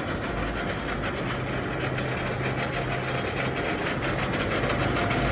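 Model 165 screw-cutting lathe running, its spindle and gearbox turning with a steady hum and a fine, even gear rattle; the machine has just had a medium overhaul.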